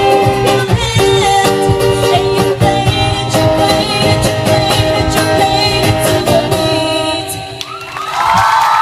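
A singer holding long notes over guitar accompaniment as a song ends; about eight seconds in the music gives way to a crowd cheering.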